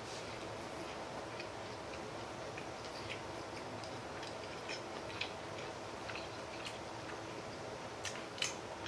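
Faint, irregular mouth clicks of a man chewing sushi with his mouth closed, over a steady low room hum.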